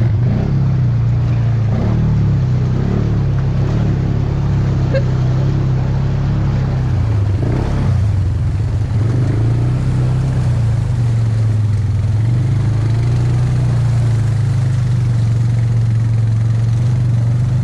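ATV engine running steadily under way, a continuous low drone whose pitch wavers slightly up and down.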